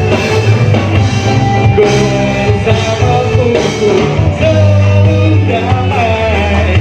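A rock band playing a song, with a sung melody over guitar, bass and drums.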